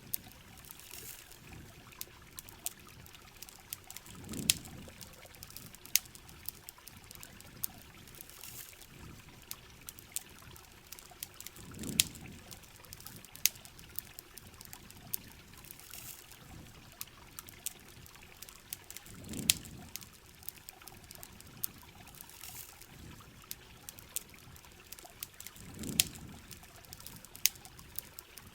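Heavy rain falling steadily, with many sharp campfire crackles and pops. A low swell rises and falls about every seven and a half seconds, four times.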